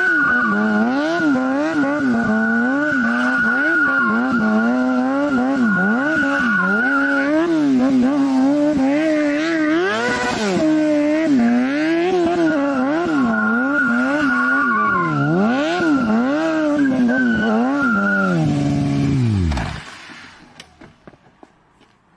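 A vehicle engine revving up and down over and over, with a steady high-pitched whine over it for much of the time. Near the end the pitch falls away and the sound stops, like an engine winding down.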